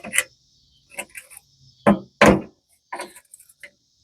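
A few hollow knocks and clunks, the two loudest close together about two seconds in, from handling the lawn tractor's rubber floor mat and sheet-metal floorboard while feeling for its push-in fasteners.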